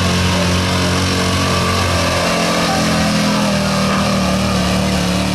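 1977 Dodge W350 pickup's engine running hard at high revs under load while pulling a weight sled at a truck pull. The note is steady, with a slight shift in tone about two seconds in.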